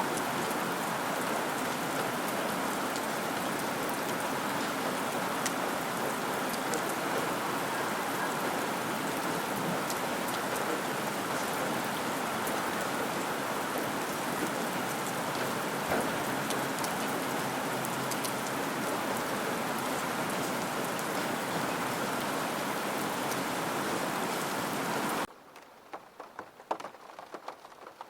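Steady, dense rain falling. About 25 seconds in, the heavy rain cuts off suddenly, leaving only faint, scattered drips.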